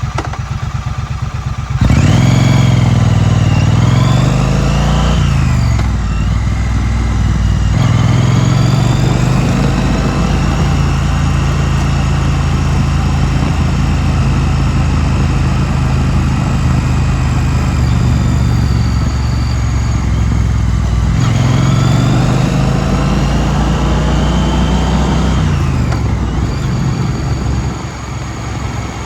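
2016 Triumph Street Twin's 900 cc parallel-twin engine riding through city streets. It opens quietly, then opens up sharply about two seconds in and rises in pitch through the gears, holds a steady cruise, and climbs again before easing off near the end.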